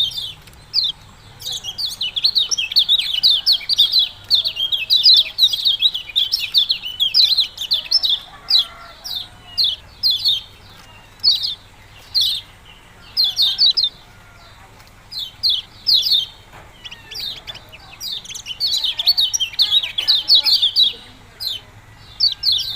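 Lemon-bellied white-eye (kecial kuning) singing its chirpy 'ciak-ciak' song: quick runs of high chirping notes, dense for several seconds at a time, with single chirps and short pauses in between.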